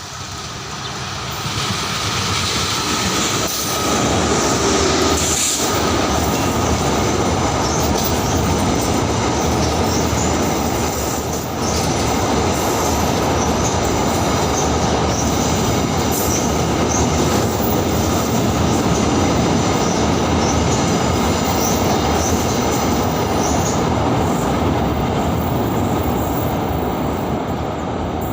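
A train passing close by on steel rails. Its rolling noise builds over the first few seconds and then holds loud and steady, with high wheel squeal and some clickety-clack over the rail joints.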